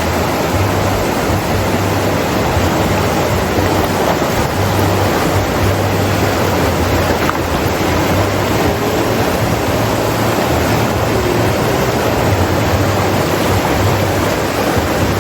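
Fast-flowing river water rushing, a loud steady roar of a strong current.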